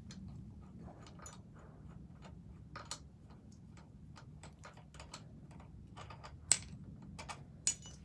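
Irregular light clicks and taps of hand tools and parts being handled while the rear wheel of a Honda 50 dirt bike is being removed, with two sharper knocks near the end, over a faint steady low hum.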